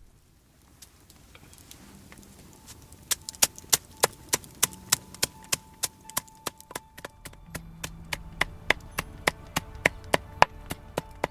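Axe head striking coffee beans in quick, sharp, evenly spaced taps, about two to three a second, beginning about three seconds in: beans being coarsely crushed with an axe.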